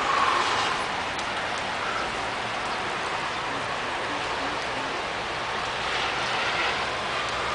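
Steady hiss of city traffic on rain-wet streets, tyres swishing on the wet road, swelling slightly as a vehicle passes about six seconds in.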